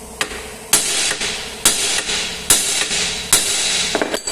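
A hammer striking the steel front suspension of a Fiat Palio Weekend: four heavy blows about a second apart, each ringing on. The blows shock loose the tapered stud of the ball joint being replaced.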